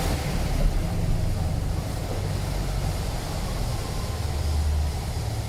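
Car engine running steadily with a low rumble, with wind on the microphone.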